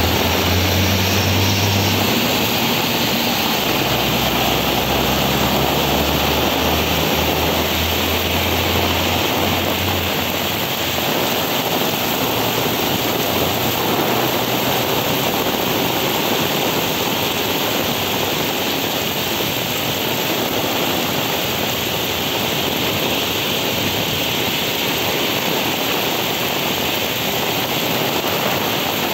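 Heavy rain pouring steadily onto a flooded paved lot, a dense even hiss. A low rumble sits under it for the first ten seconds or so and then fades away.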